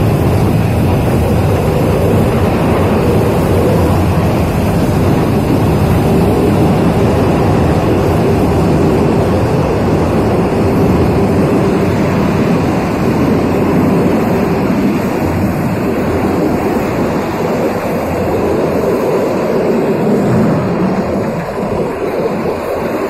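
Passenger train running along the track: a steady, loud rumble of wheels and carriages, easing slightly near the end.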